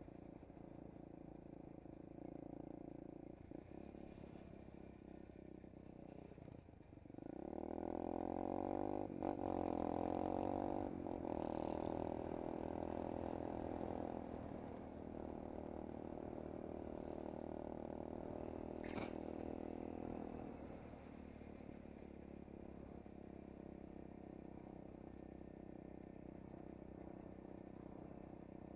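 SSR 125cc pit bike's single-cylinder four-stroke engine running while riding. About seven seconds in it rises in pitch and gets louder as the bike accelerates, then eases back in stages to a steady, quieter run, with one brief sharp high chirp near the end of the louder stretch.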